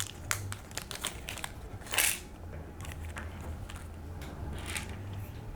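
Small screws and kit parts being handled and sorted on a workbench: scattered light clicks and ticks, with a louder rustle about two seconds in, over a faint low hum.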